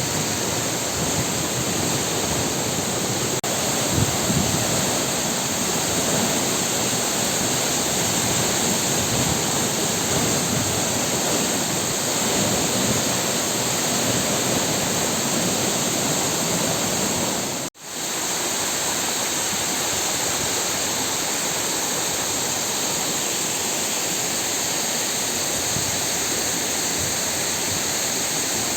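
Waterfall: a steady, even rush of falling water, with a momentary cut-out of the sound about two-thirds of the way through.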